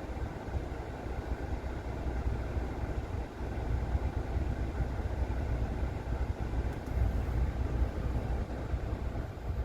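80-series Toyota Harrier running, a steady low rumble of engine and road noise.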